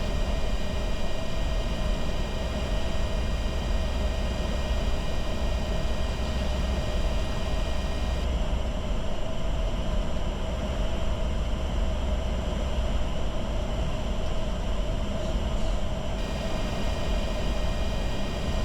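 Steady flight-deck noise of a Bombardier Challenger 605 jet in descent: a continuous rush of airflow and engine hum with a deep low rumble. Thin high whining tones drop out about eight seconds in and return near the end.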